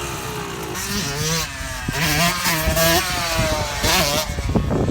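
Dirt bike engines revving, their pitch rising and falling again and again as the throttle is worked.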